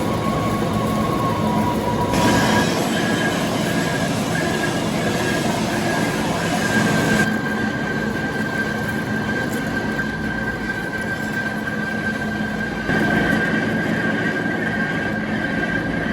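Metal lathe cutting, with a steady high-pitched squeal over the running machine. The squeal steps up in pitch about two seconds in.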